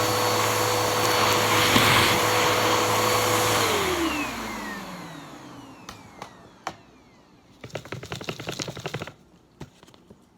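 Bissell vacuum cleaner running steadily, then switched off about three and a half seconds in, its motor whine falling in pitch as it spins down. Afterwards a few light clicks and a short rattling clatter.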